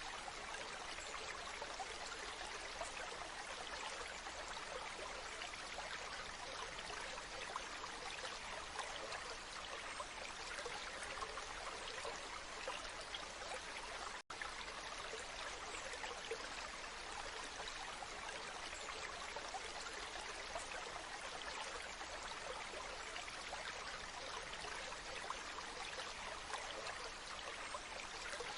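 Waterfall: a steady rush of falling water, unchanging throughout, with a split-second silent gap about halfway through.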